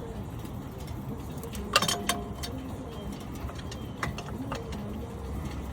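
Tools and brake parts handled during a front brake pad job, with two sharp knocks close together about two seconds in over a steady low background.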